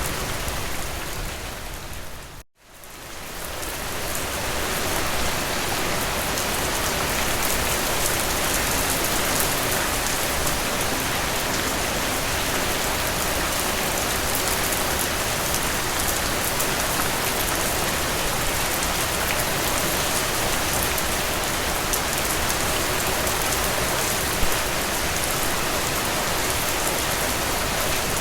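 Steady rain falling, an even hiss of many drops. About two and a half seconds in it fades out to a brief gap of silence, then swells back up to a steady level over the next couple of seconds.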